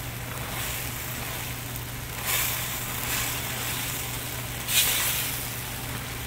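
Chopped kimchi sizzling in a hot wok as it is stirred and pushed around with a silicone spatula, the sizzle surging louder twice, about two seconds in and near five seconds, over a steady low hum.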